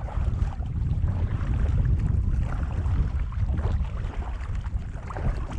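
Wind buffeting an outdoor microphone: a steady low rumble with a thin hiss above it, with faint water noise around a wading angler.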